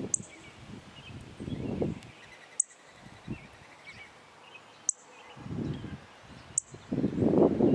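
Outdoor birdsong ambience: faint bird chirps over low, gusty rumbles like wind buffeting the microphone, which grow loudest near the end. Four sharp clicks come about two seconds apart.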